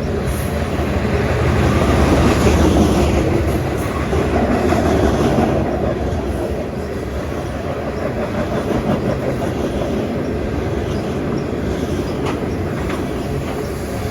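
Freight train of tank cars rolling past, steel wheels clacking over the rail joints in a steady rumble that is loudest a few seconds in.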